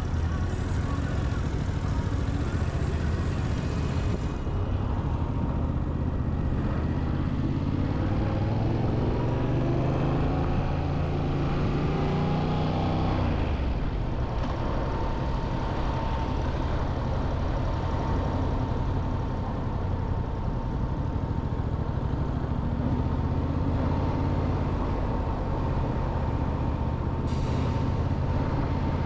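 Motorcycle engine running on the move, its pitch climbing for about five seconds as it accelerates, then falling away sharply about halfway through as the throttle is eased or a gear is changed, and running steady after that.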